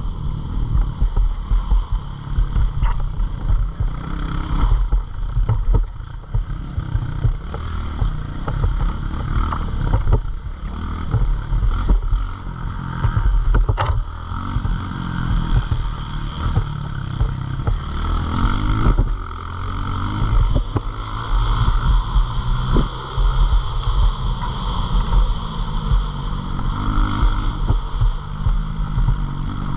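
Pit bike engine running continuously, its pitch rising and falling, with heavy wind buffeting on the microphone.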